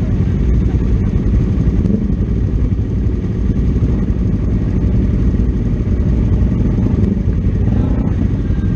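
Racing motorcycle running at speed, a loud, steady rumble that does not let up.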